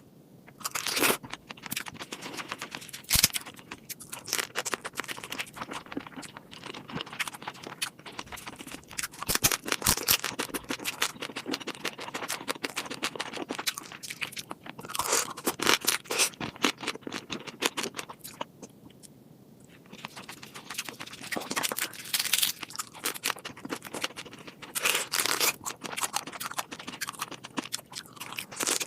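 Close-miked eating of seafood: repeated crunching, chewing and scraping, with a brief lull about nineteen seconds in.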